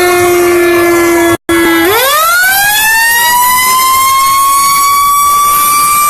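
Fire truck siren: a low steady tone that breaks off suddenly about a second and a half in, then winds up from about two seconds in to a high, steady wail that holds.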